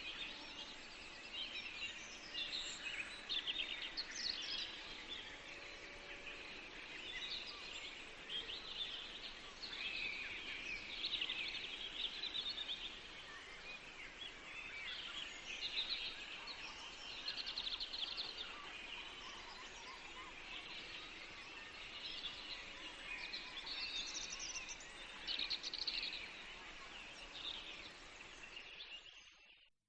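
Several songbirds singing and chirping in a forest, their calls overlapping, over a steady background hiss. It all fades out to silence just at the end.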